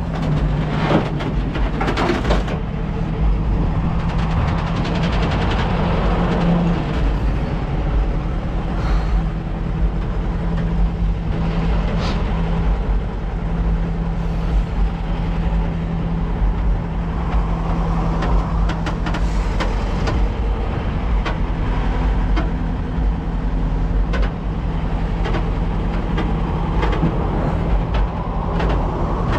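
Flatbed tow truck on the move: its engine runs steadily with road rumble, with a few brief knocks along the way.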